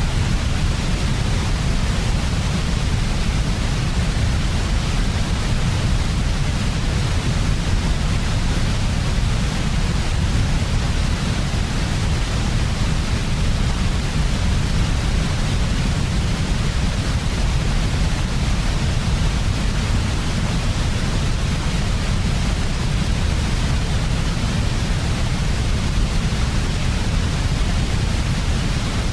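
Steady white noise for sleep: an unchanging hiss with a strong low rumble beneath it, level and without any change or break.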